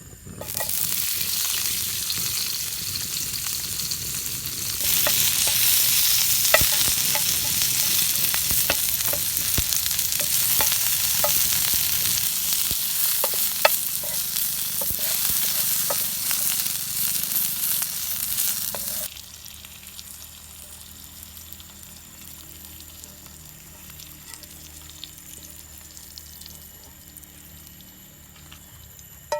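Food frying in hot oil in a pan: a steady sizzle with scattered crackles and pops, growing louder about five seconds in. It cuts off abruptly about two-thirds of the way through, leaving a much quieter background.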